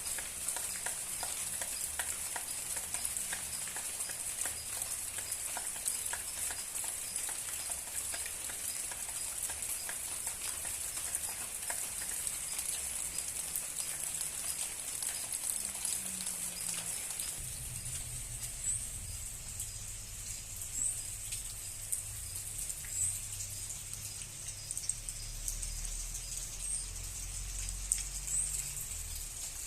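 Rain falling, a dense pattering of many small drops. About halfway through the patter thins and a low steady rumble comes in, with a faint high chirp every second or two.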